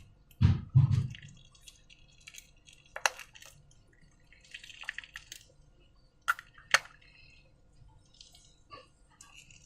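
Clear slime being squished and handled, wet and sticky: two soft thuds near the start, then a few sharp sticky clicks and a short run of crackling.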